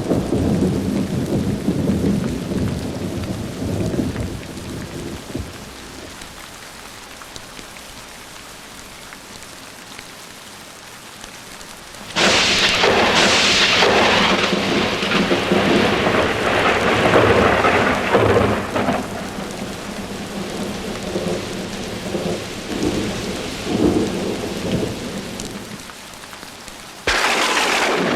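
Thunderstorm: rain falling steadily while thunder rolls. A low rumble fades over the first few seconds, a sharp thunderclap breaks about twelve seconds in and rumbles on for more than ten seconds, and another clap strikes near the end.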